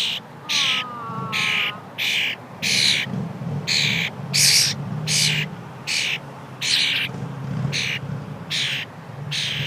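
A wild bird giving short, harsh calls over and over, about one and a half a second, begging insistently for food.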